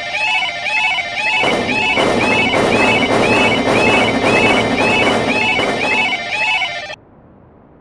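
Railroad crossing alarm sounding: a repeating warbling two-tone wail, about three cycles a second. About a second and a half in, a loud rumble with a regular beat joins it, and both cut off suddenly near the end.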